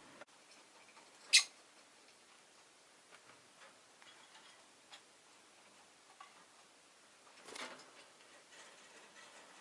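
Rosy-faced lovebird giving one short, sharp, shrill chirp about a second in, and a longer, softer call near the end, with faint small clicks between.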